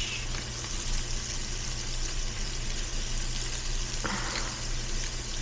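Steady hiss of food cooking on the stovetop, with a low hum underneath and a short scrape or rustle about four seconds in.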